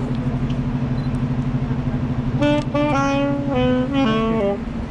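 Street saxophonist playing a melody, a run of held notes stepping up and down starting about halfway in, over a steady low hum.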